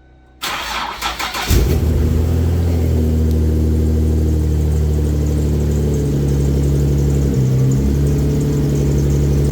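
Twin-turbo Infiniti G37's V6 being cranked on the starter, catching after about a second of cranking and settling into a steady idle. It is a cold start after about six months in storage. The idle briefly changes pitch about seven seconds in.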